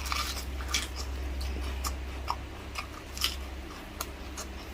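A person chewing and biting food, with scattered short clicks and smacks of the mouth.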